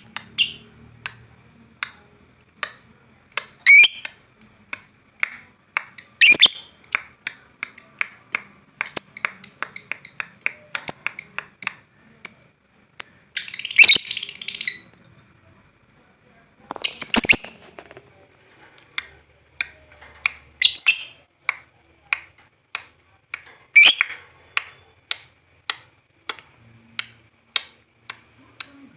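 Lovebird making a run of short, sharp, high chirps at an irregular pace, with two longer harsh chattering bursts about halfway through: a young bird practising toward the 'ngekek' trilling song.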